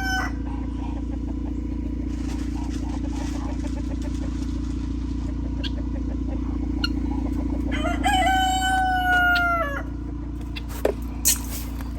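Rooster crowing: one long crow about eight seconds in that drops in pitch at its end, with the last of an earlier crow just at the start. A steady low hum lies underneath, and there are two short clicks near the end.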